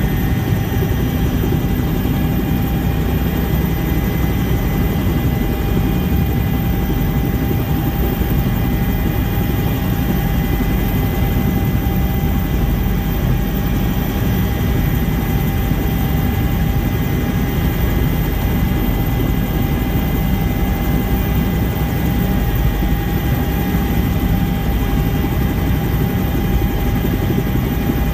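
Twin-engine Bell 230 helicopter running at a steady pitch and level, with a thin turbine whine over the rotor noise.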